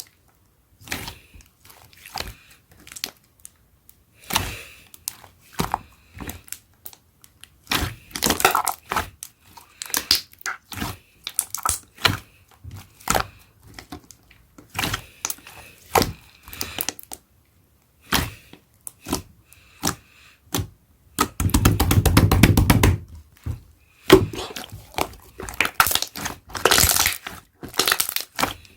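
Thick dark-green slime being squished and pressed by hand, giving irregular sticky pops, clicks and crackles. About three-quarters of the way through comes a louder, dense run of very rapid pops lasting about a second and a half.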